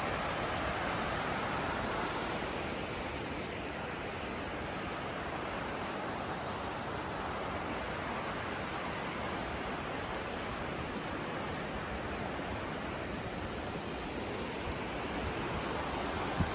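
Steady rush of a river running with snowmelt water through a rocky gorge. Faint short high chirps come through every few seconds.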